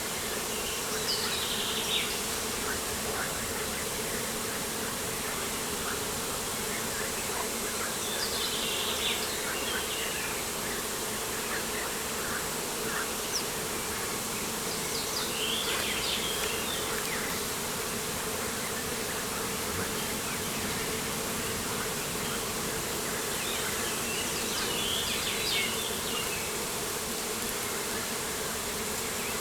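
Steady buzzing of insects over a steady hiss of outdoor ambience, with short bursts of birdsong about four times, several seconds apart.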